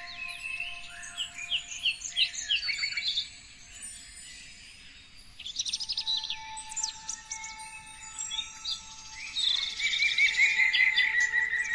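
Several songbirds singing, with overlapping phrases of rapid high chirps, trills and quick downward-sweeping notes. They come in three bursts: one at the start, one about halfway through, and a long rapid trill near the end.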